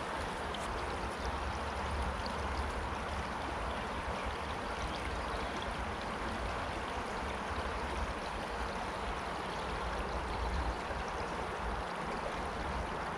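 Woodland stream running after heavy rain: a steady rushing of water with a low rumble underneath.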